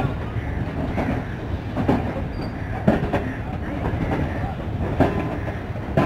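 Pakistan Railways passenger coaches rolling slowly past as the express departs: a steady low rumble broken by irregular clanks and knocks from the wheels and couplings, about one a second.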